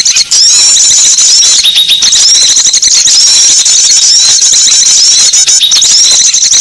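Dense, unbroken high-pitched chirping and twittering of many small birds, a bird-luring call recording used to draw small birds in. It is loud and packed with rapid overlapping chirps and trills.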